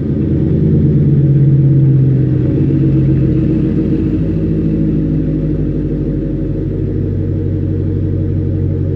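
2010 Audi S5 engine idling through an exhaust with the muffler and resonators deleted, giving a loud, deep rumble. The idle runs slightly higher in the first few seconds, then settles to a steady note.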